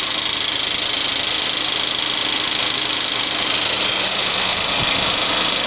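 1999 Honda Accord EX-L engine idling with the A/C compressor engaged. Over it runs a steady metallic noise, which the owner calls clanging. It began after a radiator replacement and is made worse by the running A/C compressor.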